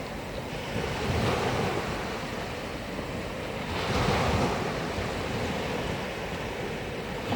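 Sea waves washing onto the shore, with two louder surges about a second and about four seconds in, and wind buffeting the microphone.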